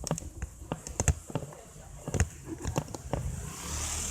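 Irregular sharp knocks and rattles over a low rumble, typical of a mountain bike and its mounted camera jolting over a bumpy road surface. A hiss swells briefly near the end.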